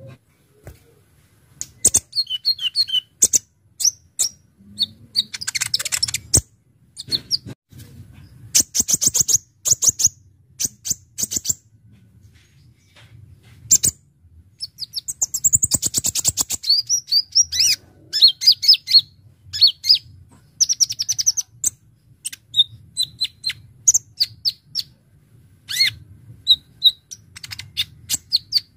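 Kolibri ninja sunbird singing in quick bursts of sharp, high chirps and fast rattling trills, with short pauses between the phrases.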